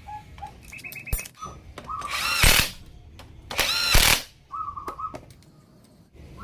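Power tool run in two short bursts of about half a second each, its pitch rising and falling within each burst.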